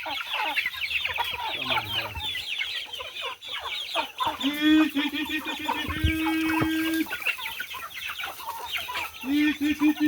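A flock of chickens clucking and chirping, with a rooster giving a long crowing call about four seconds in and another long call starting near the end.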